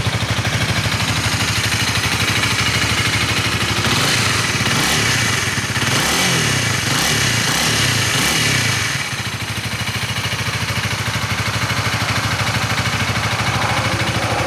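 2021 Honda Rebel 300's single-cylinder engine through its stock exhaust, idling with an even thumping pulse, blipped by the throttle about five times in quick succession a third of the way in, each rev rising and falling, then settling back to idle.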